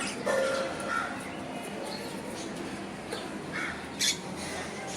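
Ring-necked parakeet giving a few short calls, the sharpest and loudest about four seconds in.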